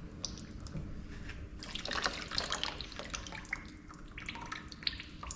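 Oily hydraulic cylinder parts being wiped and handled: a cluster of short wet, squishy clicks and small scrapes, busiest in the middle.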